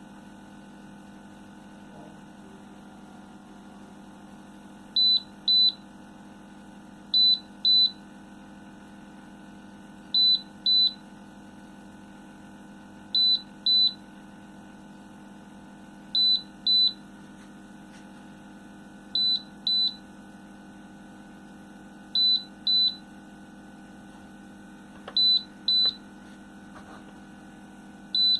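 Electronic controller of a twin-head mug heat press beeping in high double beeps, a pair about every three seconds starting about five seconds in, over a steady electrical hum.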